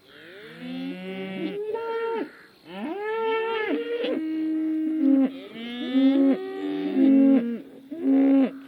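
Several cattle mooing, their drawn-out calls overlapping at different pitches, each rising, holding and falling away, one after another.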